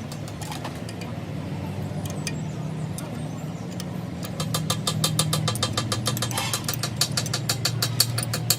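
An engine running steadily. About halfway through, a fast, even ticking of roughly seven clicks a second starts over it.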